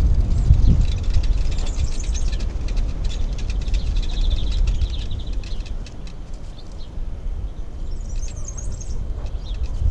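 Small birds chirping and calling in quick high notes, with a steady low rumble underneath.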